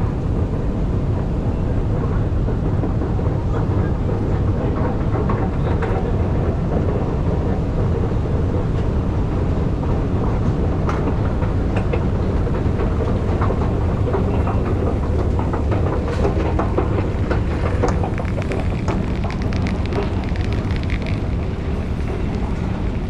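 Steady low rumble and hiss of a railway station's ambience, with scattered faint clicks.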